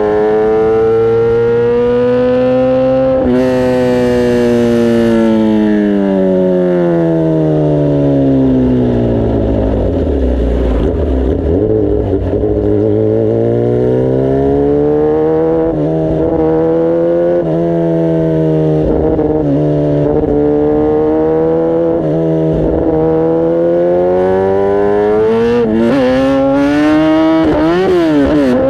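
Kawasaki ZX-10R's inline-four engine and exhaust under way: the revs rise briefly, then fall slowly to a low point about ten seconds in as the bike slows, build back up and hold fairly steady, with quick rises and falls in pitch near the end.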